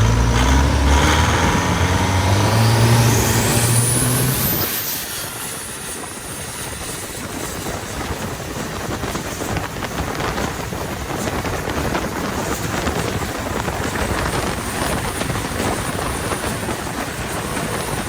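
Twin-turbo longtail racing boat engine running hard, cutting off about four and a half seconds in. A steady rush of water and wind noise follows.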